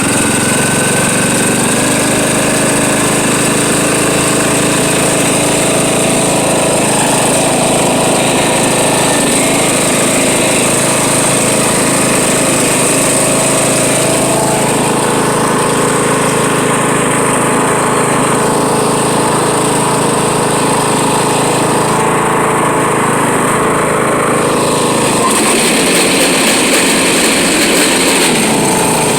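Riding lawn mower running with the deck lowered and the blades engaged, making a loud, continuous grinding racket that sounds so crazy. The deck belt is loose and some deck pulleys have play.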